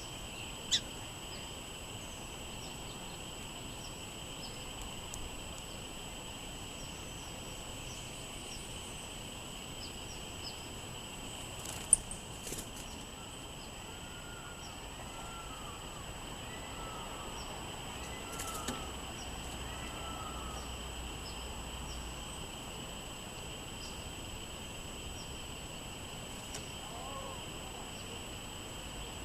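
Songbirds chirping, with a run of about five arched call notes, roughly a second apart, in the middle. Steady wind noise runs underneath, with a constant background hiss. Two sharp clicks stand out, one just after the start and a louder one about 12 seconds in.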